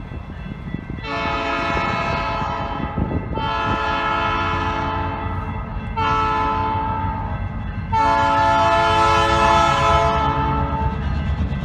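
Locomotive air horn sounding the grade-crossing signal: long, long, short, long, the last blast the loudest. The horn has several tones at once, over the steady low rumble of the passing train.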